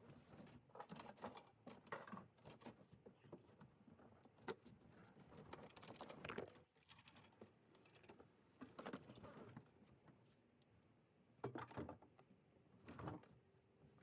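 Faint irregular clinks, taps and rustles of household items being handled and packed during a house move, with two louder clattering bursts near the end.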